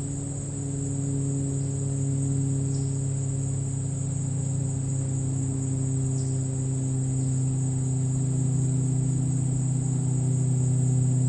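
Crickets chirping in a continuous high trill, with a low steady drone underneath that grows slightly louder. A few faint short chirps sound now and then.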